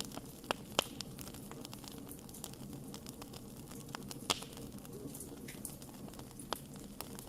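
Wood fire crackling: irregular sharp pops and snaps over a steady low rush, with the loudest pops a little under a second in and about four seconds in.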